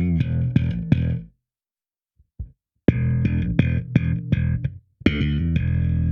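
Slap bass on a Yamaha BB3000 4-string electric bass, played through a pitch shifter set five semitones down so that the E string sounds like a 5-string's low B. The bass plays short phrases of sharp popping notes, with a pause of about a second and a half near the start.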